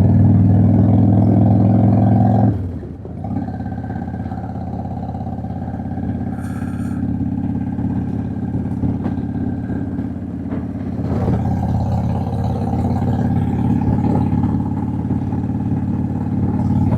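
Harley-Davidson Dyna's V-twin engine running on the road, pulling strongly for the first two and a half seconds, then dropping suddenly to a lower, steady run and picking up again about eleven seconds in.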